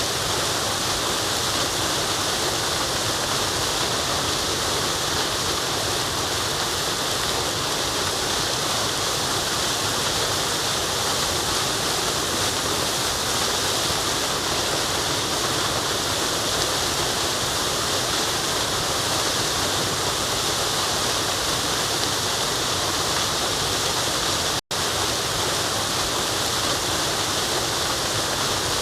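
Forest waterfall: a steady, unbroken rush of falling water. It cuts out for an instant about three-quarters of the way through, then carries on.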